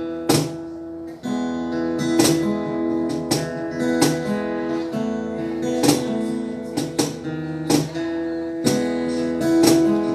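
Acoustic guitar strumming chords in a steady rhythm; it drops off briefly about a second in, then resumes.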